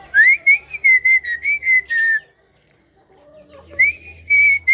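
Javan myna giving a quick run of whistled notes, wavering around one pitch, for about two seconds, then starting another run near the end.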